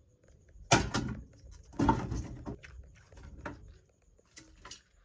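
Kitchen handling noises: a few sharp knocks and clatters with rustling between them, as things are picked up, moved and set down, the loudest two near the start.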